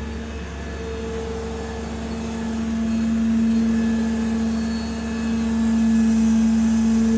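Rollback tow truck's engine and bed hydraulics running, a steady hum that grows louder about three seconds in and again about six seconds in.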